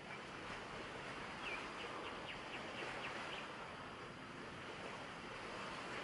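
A bird gives a quick run of about seven short, high chirps from about a second and a half in, over a steady rushing outdoor background of wind or distant surf.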